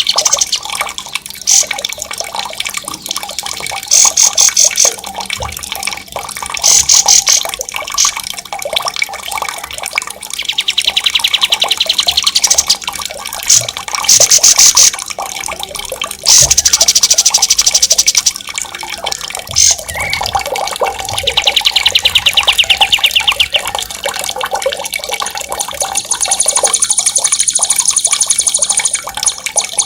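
Songbird song made of loud, rapid trills in repeated bouts of one to two seconds, with a longer, higher trill near the end, over a steady wash of running water.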